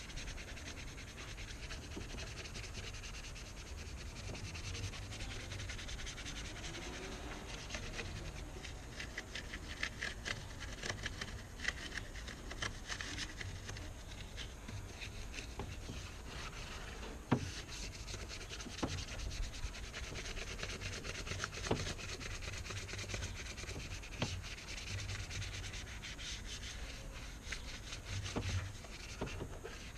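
Scrubbing and rubbing strokes on a motorcycle engine as sprayed cleaner foam is worked in, a quick scratchy run of strokes with a couple of sharper knocks partway through.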